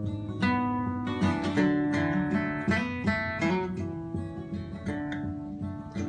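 Acoustic guitar playing a song's introduction: strummed and picked chords with the notes left ringing.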